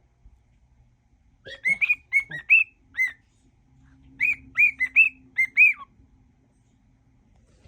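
Cockatiel whistling a tune in two phrases of short clear notes, the first about a second and a half in and the second about four seconds in, with pauses between.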